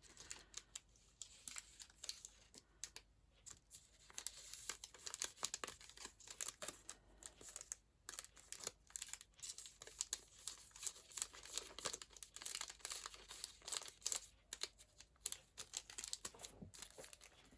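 Rustling and crinkling of packets and craft supplies being handled and put away, with many small irregular clicks and rustles.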